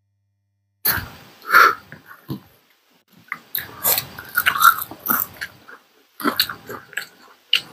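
Two people chewing loudly, with crunching, smacking and wet mouth noises in irregular clusters. It starts about a second in.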